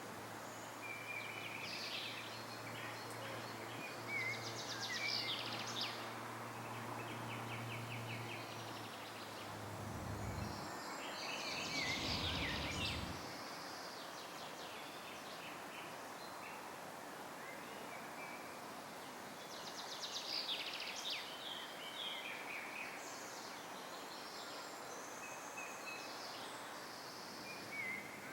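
Wild songbirds singing in several short bursts of chirps and trills, over a steady background hiss. A low hum runs for the first third, and a brief low rumble comes about halfway through.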